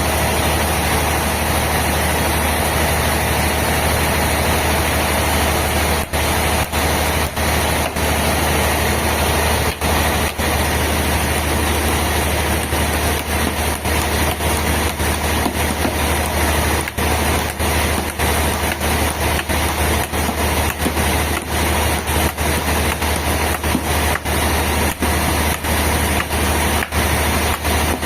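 Heavy sawmill machinery running steadily, a loud, even, low drone like a big engine. From about six seconds in it is broken by many brief dips in level.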